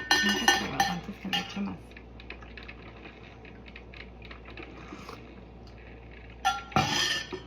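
A spoon stirring coffee in a cup, clinking quickly against the sides for about two seconds, then faint small clicks, and a last short clink near the end.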